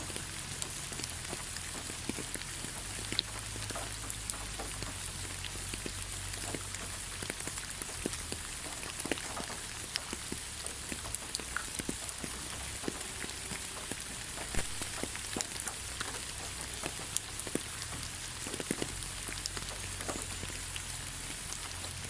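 Steady light rain, with a constant hiss and many separate drops ticking close by. A low rumble runs underneath.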